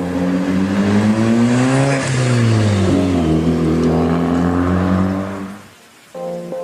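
A car engine revving: its pitch climbs for about two seconds, drops back, then holds steady before fading out near the end.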